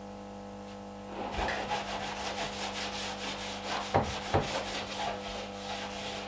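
Cloth rubbing over the freshly oiled oak table base in repeated strokes, with two sharp knocks about two-thirds of the way in, over a steady low hum.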